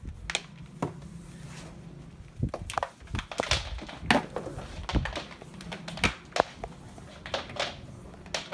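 Power cord being unwound from a plastic Hoover upright vacuum: irregular knocks and clicks, with the cord swishing as it slides off its hooks.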